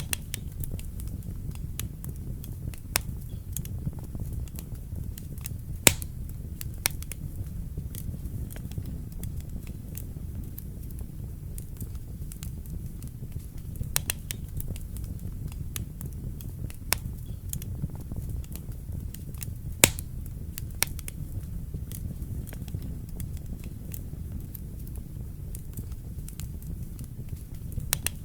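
Wood fire burning in a fireplace: irregular crackles and sharp pops over a steady low rumble. The two loudest pops come about six seconds in and about twenty seconds in.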